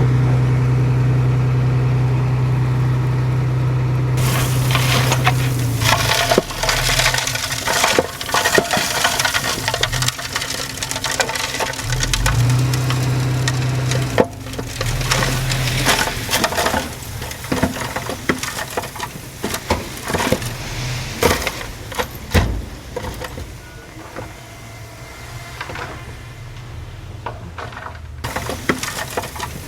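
A diesel engine of heavy earthmoving machinery runs steadily, then a long stretch of dense crunching and crackling as loose soil and stones tumble and grind. The engine tone comes back briefly partway through, and the crunching grows fainter near the end.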